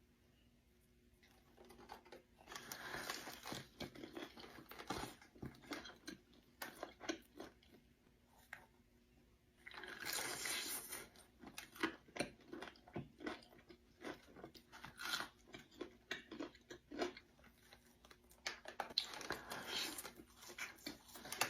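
A person eating crunchy food close to the microphone: crisp bites and chewing, with three louder spells of crunching (about 2.5, 10 and 19 seconds in) and steady chewing clicks between them.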